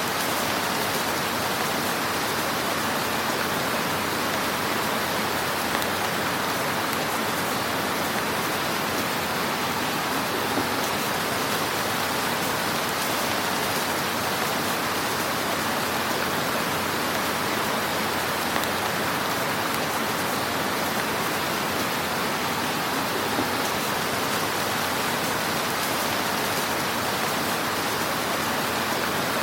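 Wood fire crackling in a fireplace: a dense, steady hiss of small crackles with a few slightly louder pops.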